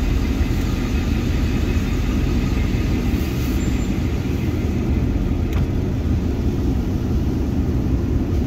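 Truck engine running with a steady low rumble, heard from inside the cab as the truck pulls out of a parking space, with a small click about five and a half seconds in.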